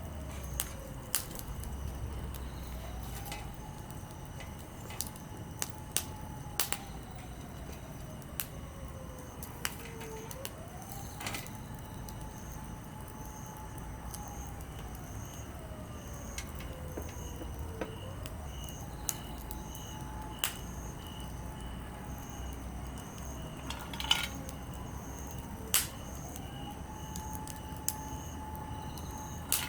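Wood campfire of softwood and hardwood logs crackling, with irregular sharp pops over a steady low hiss. A faint whistle holds, then slides lower, and comes back every several seconds.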